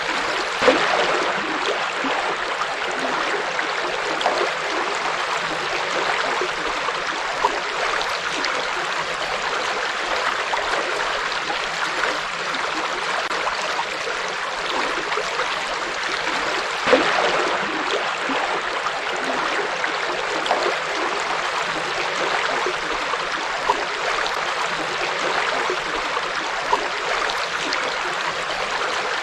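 River water flowing in a steady, even rush, with a few brief louder splashes, the strongest about a second in and at about seventeen seconds.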